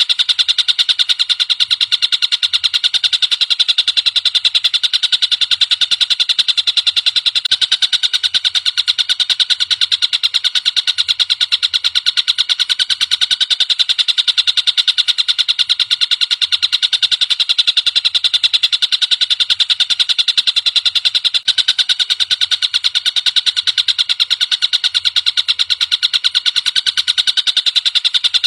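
Tengkek buto (collared kingfisher) call: a rapid, unbroken run of harsh, high repeated notes, steady throughout.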